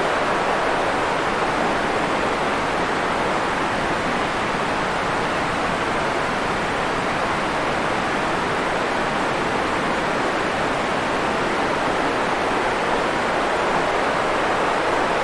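Steady, unchanging white-noise track: an even hiss with most of its energy in the middle range, little deep bass and softer treble.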